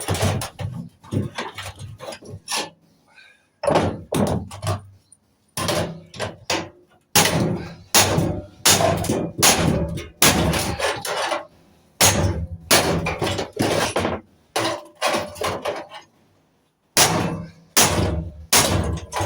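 Hammer blows knocking apart scrap metal parts, coming in quick bursts of several strikes with short pauses between them.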